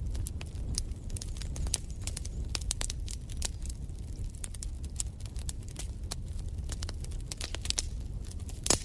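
Wood fire crackling in a fireplace: frequent sharp snaps and pops over a steady low rumble of the flames, with one louder pop near the end.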